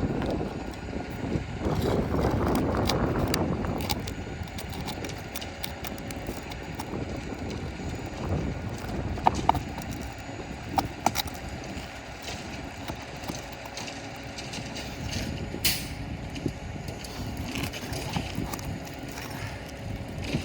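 Wind noise on the microphone, louder in the first few seconds. Over it come a few scattered sharp clicks and taps from a metal roof snake working roofing nails loose from asphalt shingles.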